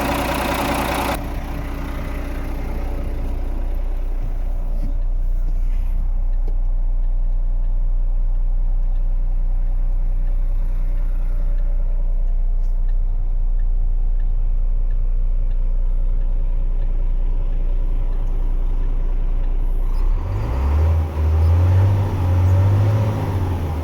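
Renault Premium 380 truck's diesel engine idling steadily with a low hum. About twenty seconds in it revs up and down a few times.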